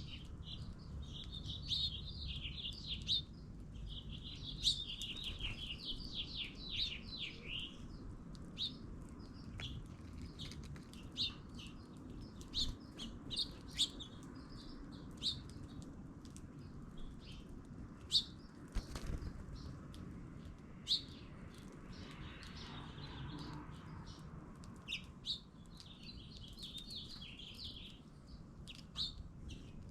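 Small birds chirping and twittering, with quick runs of rapid calls in the first several seconds and again near the end, among many short sharp chirps.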